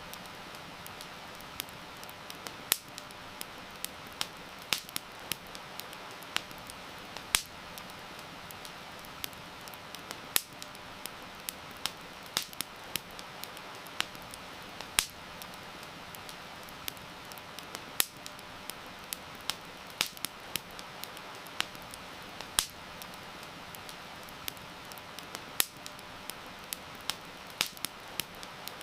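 Campfire crackling, with sharp irregular pops and snaps, over a steady hiss of heavy rain.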